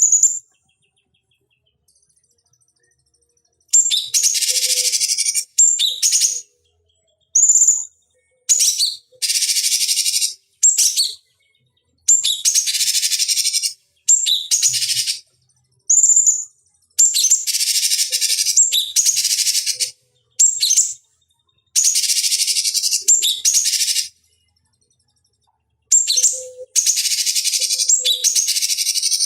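Cucak cungkok song: bursts of harsh, dense chattering, each a second or more long, broken by short high whistled notes and brief pauses, with a silence of about three seconds near the start and another of about two seconds near the end. It is a recorded lure song, of the kind played to provoke caged birds into singing.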